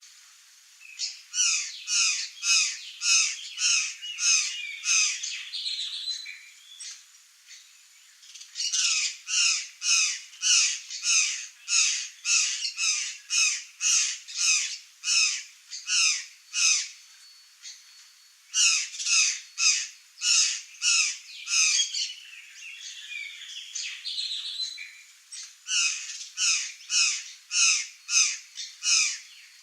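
Curl-crested jays calling: loud, harsh calls repeated about twice a second in four long bouts, with short pauses and a softer chatter between them.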